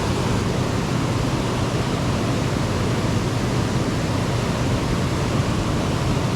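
Steady rushing water noise from the high-running dam tailwater, an even wash with a low rumble and no distinct splashes.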